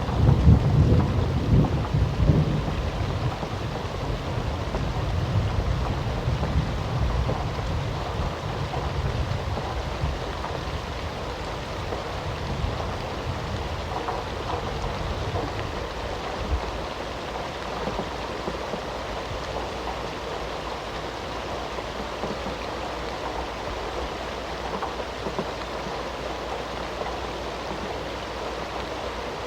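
Steady rain falling, with a rumble of thunder at the start that fades away over the first ten seconds or so.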